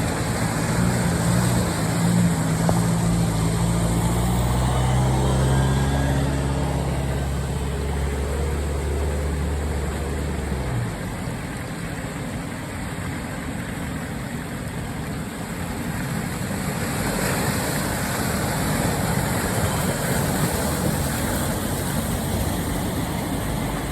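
Off-road vehicle engine running at a steady speed, its note shifting slightly a few seconds in, then cutting off suddenly about eleven seconds in. A steady rushing noise runs under it and carries on alone afterwards.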